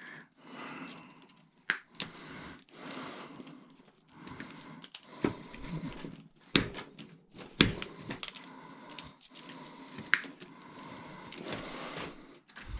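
Small scrap parts out of a stove being stripped and cleaned by hand: irregular rustling and scraping, with sharp clicks and snaps every second or so.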